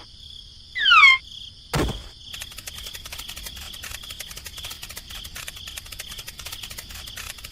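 Insects trilling: a steady high-pitched trill made of rapid pulses. Before the trill starts there is a short, loud falling squeak about a second in, then a sharp click.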